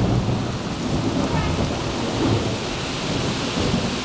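Thunder rumbling steadily and low over heavy rain, with no single sharp crack.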